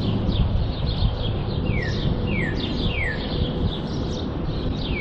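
Songbirds chirping and calling: many short, high chirps, with a run of three quick falling chirps near the middle, over a steady low rumble.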